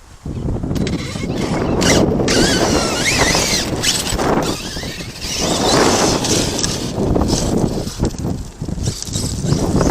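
Arrma Kraton 8S RC monster truck being driven hard: its brushless motor whines up and down in pitch with the throttle over a rough rushing noise from the truck running across the ground.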